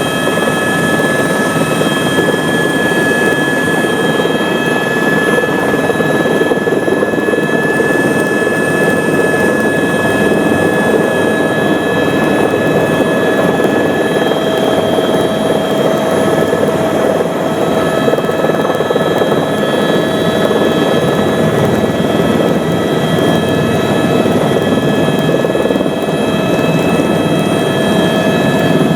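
Eurocopter AS350 A-Star helicopter in flight, heard from inside the cabin: steady rotor and engine noise with several constant high turbine whine tones over it.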